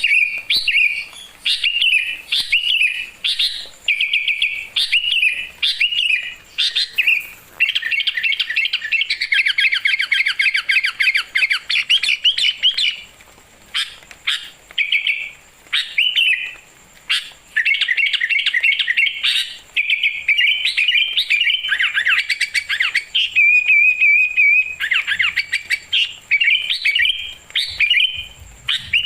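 A songbird singing in quick bursts of high chirps separated by short pauses, with a longer fast trill about a third of the way in and a brief wavering held note about two-thirds in.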